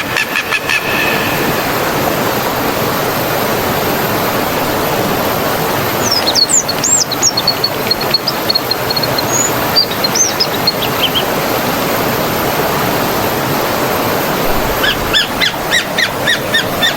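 Flowing stream water rushing steadily, with birds calling over it: a string of quick whistled notes from about six to eleven seconds in, and rapid repeated chirps near the end.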